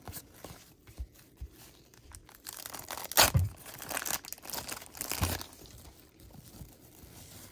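Crinkling and tearing of a trading-card pack wrapper being ripped open and handled, in uneven bouts that are loudest in the middle, with a sharp rip about three seconds in.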